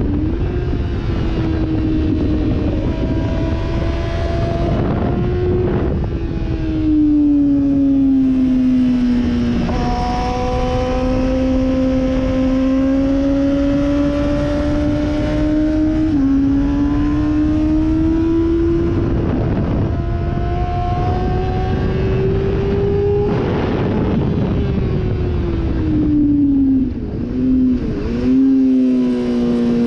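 Sportbike engine running hard at high revs, its pitch climbing and falling as it accelerates and slows. There is a sudden step down in pitch partway through, like an upshift, and a quick series of dips and blips near the end, like downshifting.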